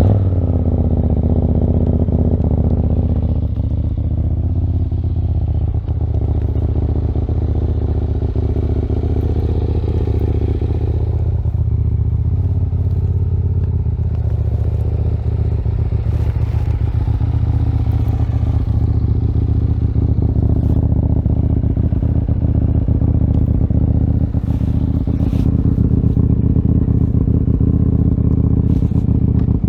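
KTM 890 Duke R's parallel-twin engine, breathing through a full Akrapovič exhaust system, starting up and then idling steadily. Its pitch starts to rise right at the end.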